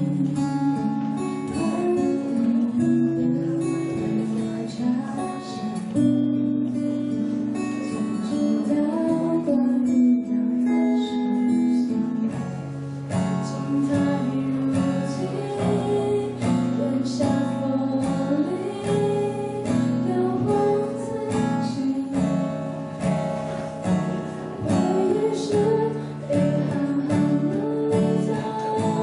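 Acoustic guitar playing a slow pop ballad, strummed and picked chords changing every second or two.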